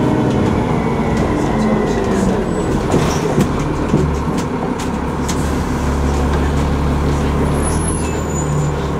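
Alexander Dennis ALX400 double-decker bus running, heard from on board, with a few knocks and rattles about three to four seconds in. From about halfway it settles into a steady low drone, with brief thin high whistles near the end.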